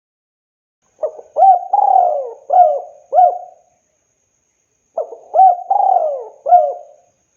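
Spotted dove (tekukur) cooing: two phrases of five or so rising-and-falling coos each, the phrases a little over a second apart.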